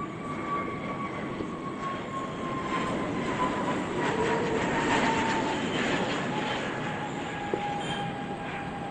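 Jet airliner engines heard as the aircraft passes: a steady whine that slowly falls in pitch over a rushing noise that swells to its loudest about halfway, then eases.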